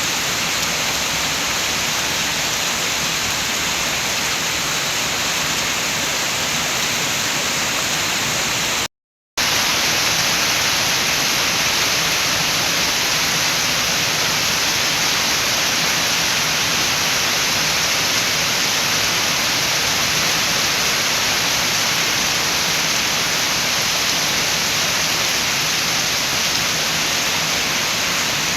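Steady rain with wind: an even rushing hiss. It cuts out for about half a second about nine seconds in, then comes back slightly louder.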